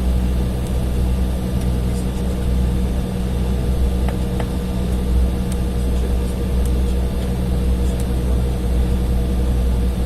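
Embraer E175 jet heard from inside the passenger cabin while taxiing: its GE CF34-8E turbofan engines at low taxi thrust give a steady low rumble with a constant thin hum above it.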